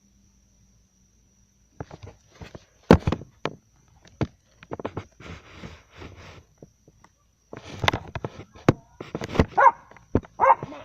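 A dog giving short barks and whimpering yelps, starting about two seconds in, among sharp clicks and knocks.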